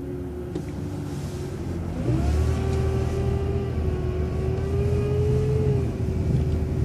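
Transit bus engine and drivetrain running under way, with a steady whine over a low rumble; it picks up and gets louder about two seconds in as the bus accelerates, then eases off slightly near the end.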